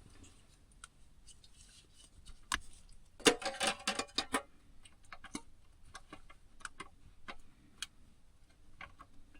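Scattered light clicks and knocks of a butane canister being fetched and handled, with a quick cluster of rattling clicks about three seconds in.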